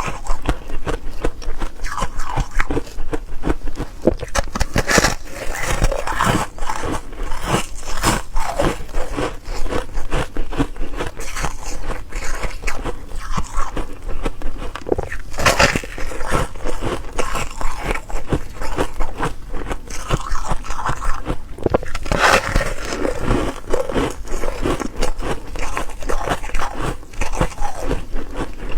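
A person biting and chewing ice cubes close to the microphone: a continuous run of quick, crisp crunches and cracks, with a few sharper, louder bites.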